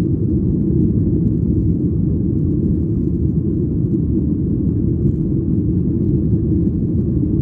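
Airliner cabin noise in flight: a steady, even low rumble of engines and rushing air heard from inside the cabin.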